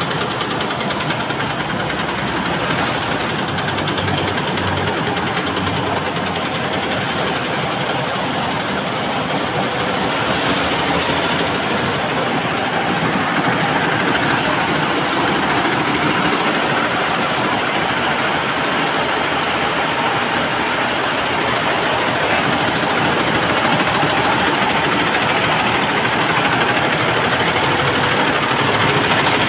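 Computerized embroidery machine running steadily, its needle stitching at a rapid, even rate.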